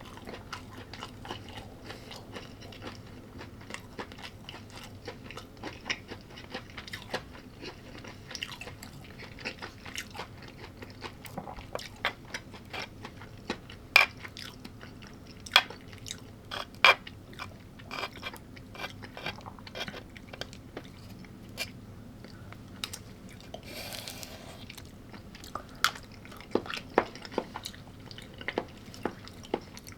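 Close-miked chewing and crunching of food. It goes in irregular bites, with three sharp, loud crunches about halfway through and more toward the end.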